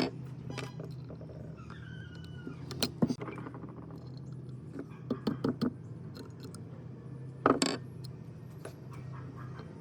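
Scattered clinks and knocks of metal parts and tools being handled, the loudest knock about three-quarters of the way through, over a steady low hum.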